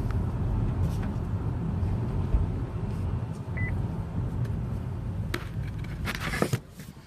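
Wind and road noise from a 2017 Buick Cascada convertible driving with its top down: a steady low rumble that dies away near the end.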